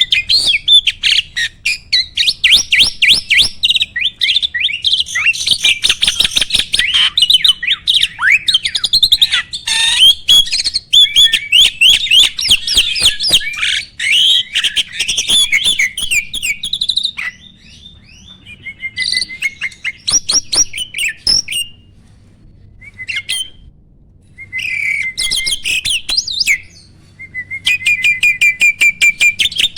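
A jalak (starling) singing a long, fast chattering song of rapid clicks and whistled notes: continuous for about the first half, then in shorter phrases with pauses, and near the end a quick run of repeated notes.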